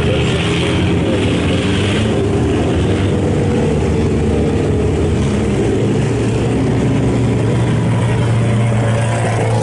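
IMCA Sport Compact race cars' four-cylinder engines running steadily at an even pitch.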